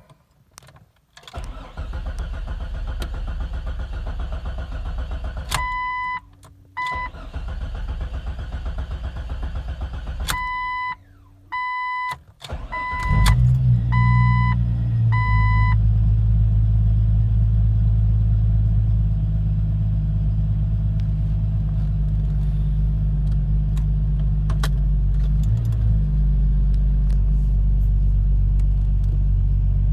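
Dashboard warning chime beeping in short, evenly spaced pulses, then the Jeep Cherokee's 4.0 inline-six catches about 13 seconds in and settles into a steady cold-start idle. The low exhaust rumble through a Banks header and Flowmaster Super 10 muffler is heard from inside the cab with the windows up.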